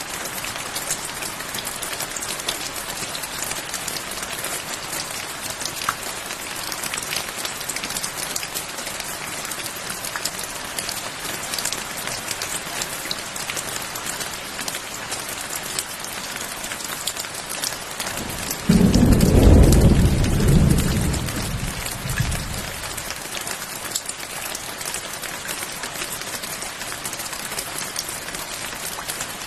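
Steady rain falling, with a dense patter of drops. About two-thirds of the way in, a sudden low rumble of thunder sets in and fades away over about four seconds.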